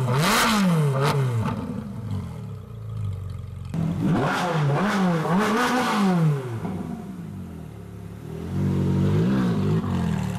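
Ferrari 458 V8 engines being blipped: the revs rise and fall sharply several times in quick succession. The sound changes abruptly to a second car about four seconds in, which revs three times. Near the end the engine runs lower with one smaller rev.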